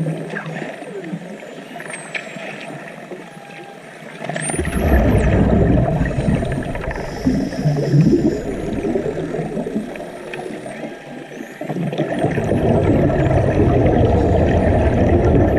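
Underwater water noise: a rushing, bubbling haze that surges about four and a half seconds in, eases for a couple of seconds, and surges again near twelve seconds, with a few faint high whistles.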